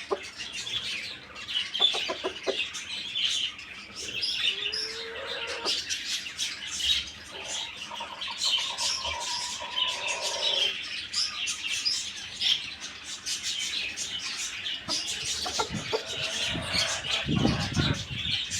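Farmyard birds: dense high chirping throughout, with chickens calling and a longer, drawn-out call in the middle. A low rustle near the end.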